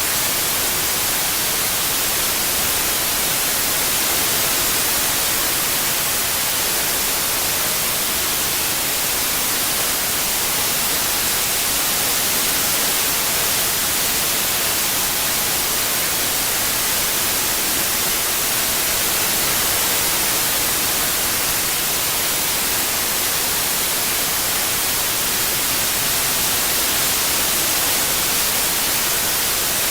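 Steady synthesized white noise, an even hiss brightest in the high end, swelling slightly in level about every eight seconds.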